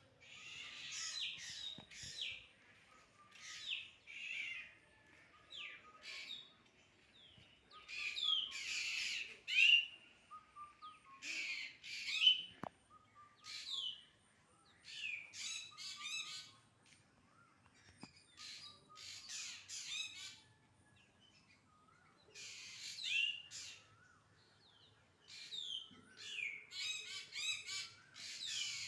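Birds calling, short bursts of chirps and squawks repeating every second or two.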